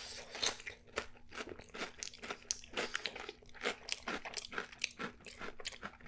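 A person chewing a mouthful of crunchy Cheetos in melted cheese sauce, with many small, irregular crunches.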